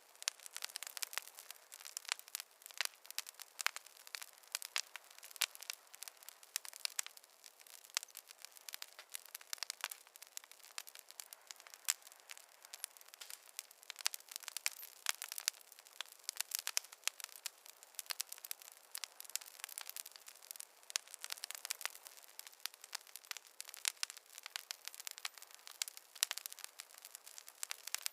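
Fireplace fire crackling: a steady stream of irregular small pops and snaps over a faint hiss, with no low roar.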